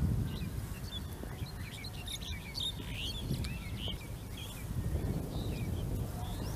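Birds chirping and twittering, many short overlapping calls, busiest through the middle, over a steady low rumble.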